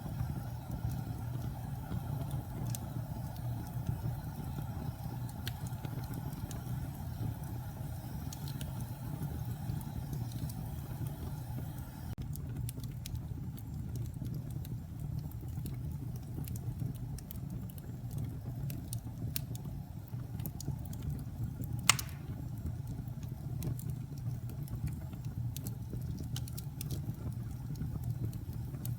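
Wood fire in a fireplace crackling: scattered sharp pops and snaps over a steady low rumble, with one louder pop about 22 seconds in.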